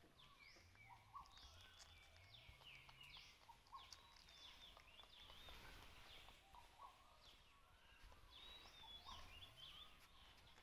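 Faint background birdsong: many short, high chirps that drop in pitch, scattered throughout over a quiet ambient hiss.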